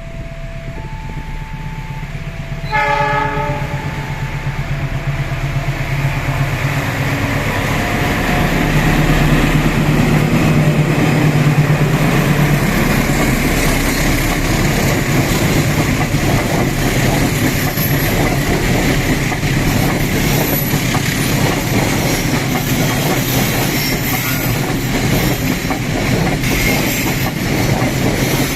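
Level-crossing warning alarm beeping in two alternating pitches. About three seconds in comes a short train horn blast, then a train passes close by, its engine running low and steady under the clatter of wheels on the rails.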